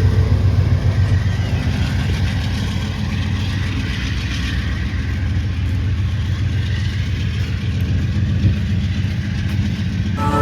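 Steady low rumble of a train, easing off a little partway through.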